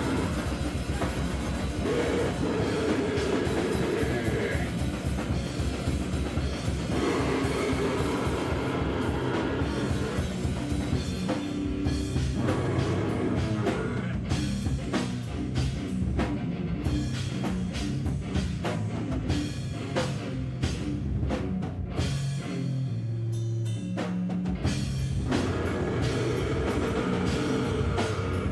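Live band playing loud, heavy distorted rock: a drum kit hit rapidly under guitar.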